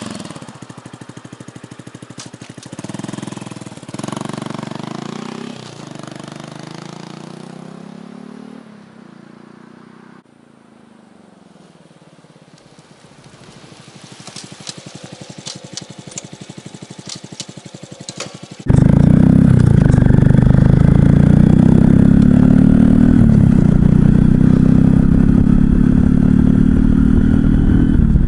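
Honda Cross Cub 110's single-cylinder engine through a Moriwaki Short Monster full exhaust, its pitch rising and falling as it accelerates and slows, then running quieter for a while. About two-thirds in it turns suddenly much louder while riding, with heavy wind noise on the microphone over the exhaust note.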